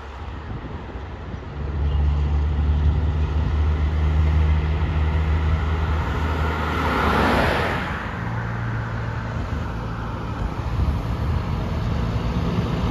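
Roadside traffic: a truck's engine drones low and steady, then a loud rush of tyre and air noise comes about seven seconds in as it passes. Another engine drone follows.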